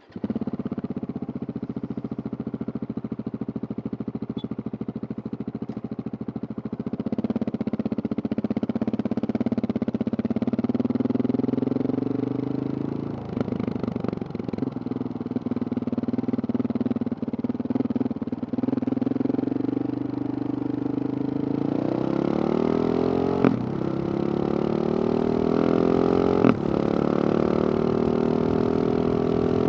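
Husqvarna 701 supermoto's single-cylinder engine with a Wings exhaust running at a steady low speed. Late on, the revs climb and hold higher, with two sharp cracks from the exhaust.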